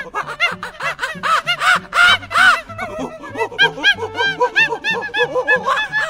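Chimpanzee calling: a fast run of hooting calls, each rising and falling in pitch, loudest about two seconds in. Background music with a steady bass line plays under it.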